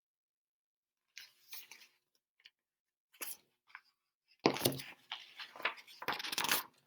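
Silence, then faint scattered rustling and handling noises that grow louder and busier from about halfway through.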